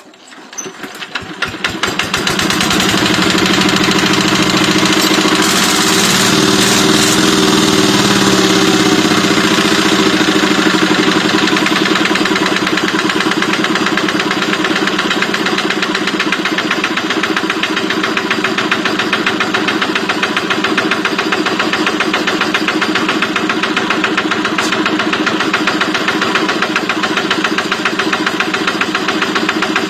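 Kubota ET110 single-cylinder diesel engine starting up and running with a steady knocking beat, its speed rising and falling briefly a few seconds in before settling to an even run.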